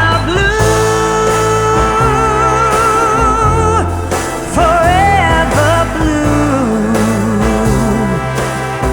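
Slow ballad: a singing voice holds one long note with vibrato, sings a short phrase, then steps down in pitch, over a steady low accompaniment.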